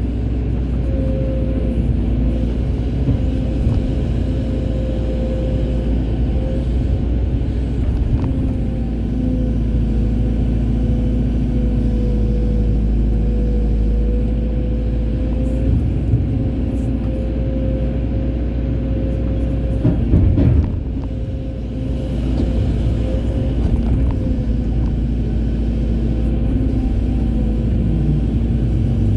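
Hydraulic excavator's diesel engine running steadily under working load, with a low rumble and a steady whine. A short burst of knocks about twenty seconds in, then the engine briefly drops off.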